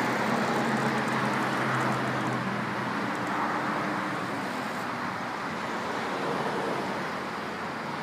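Steady road and vehicle noise, with a low engine hum that fades out about three seconds in.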